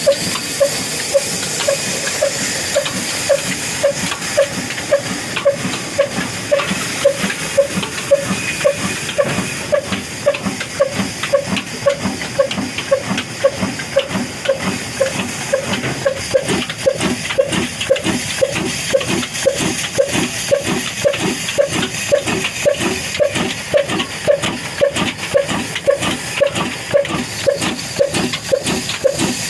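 Old Ruston stationary engine running, its exhaust beating evenly at about two beats a second over a steady hiss.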